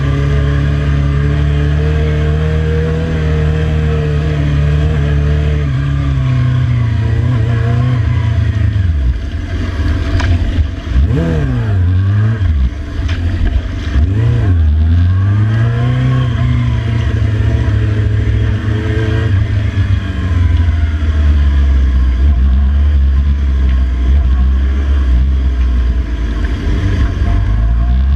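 Motorcycle engine running hard at high revs. About ten seconds in the pitch drops and swoops up and down several times, then climbs back and holds steady.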